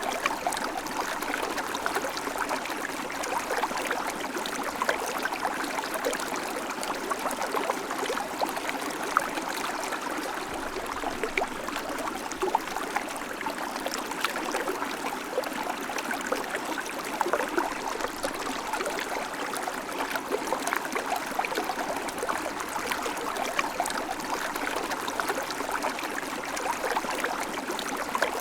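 River flowing: a steady rush of water with constant small splashes and gurgles.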